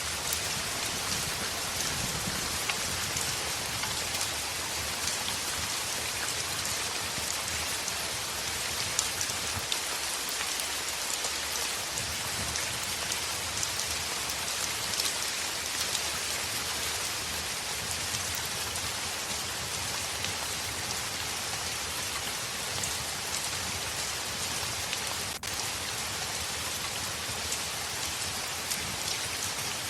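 Heavy rain falling steadily: a dense, even hiss of drops with scattered sharper ticks of individual drops hitting a surface.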